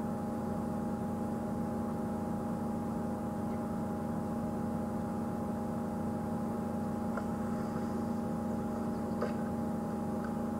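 Safari game-drive vehicle's engine idling steadily, with a few faint clicks about seven and nine seconds in and again near the end.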